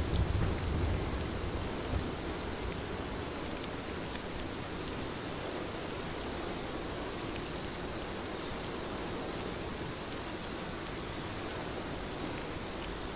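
Heavy rain falling steadily, a dense even hiss of drops, with a low rumble of thunder in the first second.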